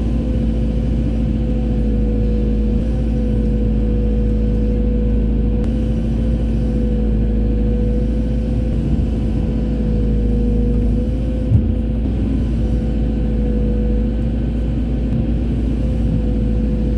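Excavator's diesel engine running steadily with a low rumble, with one brief knock about two-thirds of the way through.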